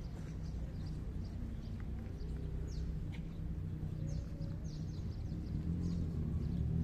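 Birds chirping overhead in short, high, downward-sweeping calls, over a steady low outdoor rumble.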